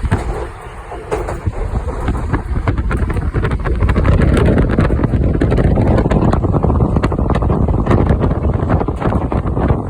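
Heavy wind buffeting on the microphone, a dense rumbling rush with irregular crackles, growing louder about four seconds in.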